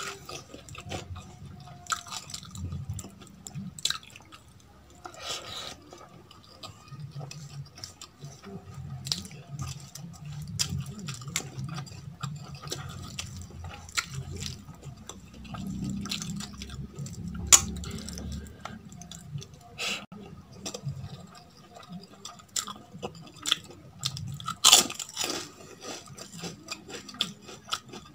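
Close-miked chewing and mouth sounds of someone eating rajma and rice by hand, with fingers squishing and scraping the rice on a steel plate and frequent sharp clicks and taps.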